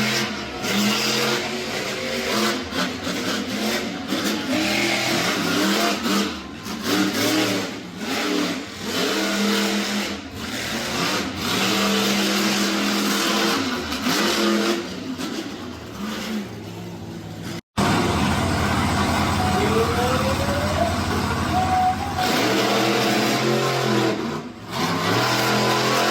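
Monster truck engine revving hard over and over, its pitch climbing and falling with each blip of the throttle. About two-thirds through, the sound cuts out for an instant, then the revving resumes with one long rise in pitch.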